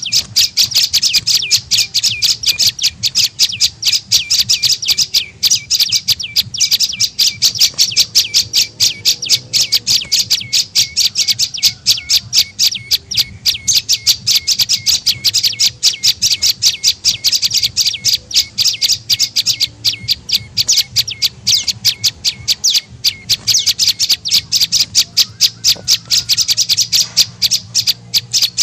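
Prenjak lumut calling: a fast, unbroken run of sharp high chips, about five or six a second, played as a lure call to draw in wild birds.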